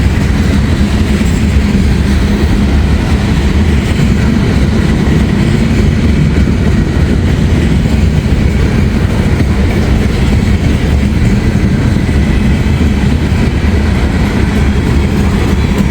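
Long freight train's cars rolling past close by: a steady, loud rumble of steel wheels on the rails.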